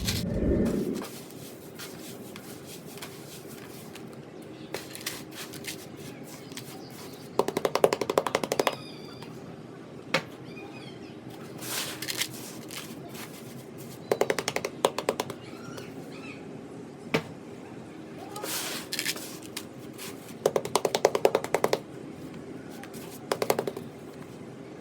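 Fingers or a tool tapping rapidly on hardened sand-cement blocks, in quick runs of about a second with pauses and an occasional single tap between them. A low thud at the very start.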